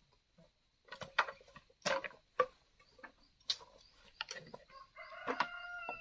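A rooster crowing: one long held call begins near the end. Before it come a series of short, sharp, irregular sounds.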